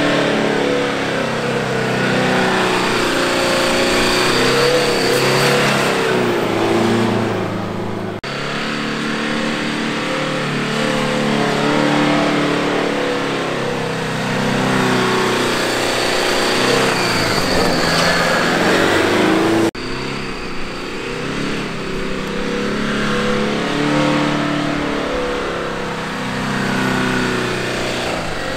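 Old Toyota Fortuner SUV's engine revving hard under load as it slides sideways through soft sand, its note climbing and dropping repeatedly. The sound jumps abruptly twice.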